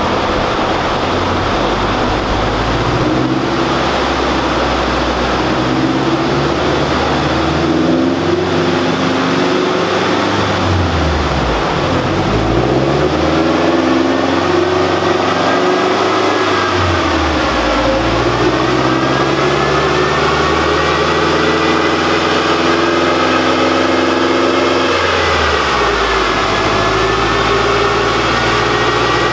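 Turbocharged Subaru Crosstrek's FB20 flat-four engine running on a chassis dyno at a held engine speed. The revs drop and climb back twice, then settle lower near the end.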